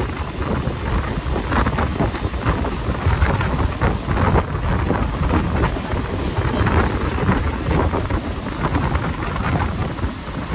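Heavy wind buffeting the microphone over the steady rumble of a moving Mumbai local train.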